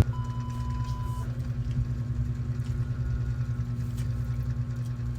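A steady low rumble with a slight pulsing, under a faint high beep tone that stops about a second in.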